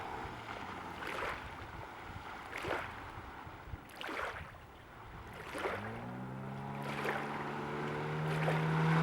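Water slapping and splashing against an inflatable boat's hull, with the outboard barely heard; about six seconds in the Yamaha 6 CMHS two-cylinder two-stroke outboard revs up and settles into a steady drone that grows louder toward the end.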